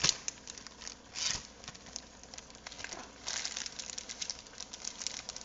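Plastic zipper storage bag crinkling and rustling in irregular bursts as a block of cheese is pushed into it.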